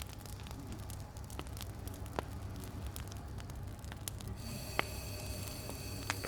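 Wood campfire burning, crackling with scattered sharp pops; two pops stand out, about two seconds in and again near five seconds, over a steady low rumble.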